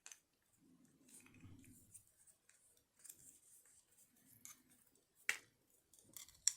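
Quiet handling sounds as a ring is taken off its display card: soft rustling and scattered light clicks, with one sharper click about five seconds in.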